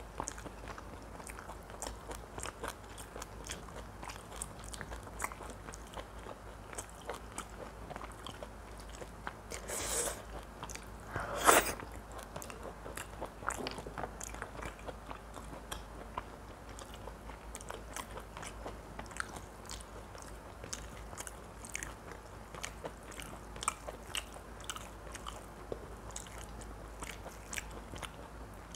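A person chewing oily mutton curry close to the microphone: a long run of wet mouth clicks and smacks, with two louder, longer sounds about ten and eleven and a half seconds in.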